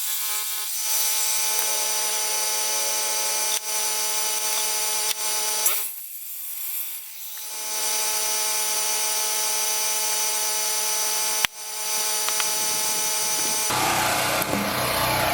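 Electric woodworking power tool running and cutting rough lumber, a steady high whine that dips for a moment about six seconds in, with a sharp click later and a rougher, noisier sound near the end.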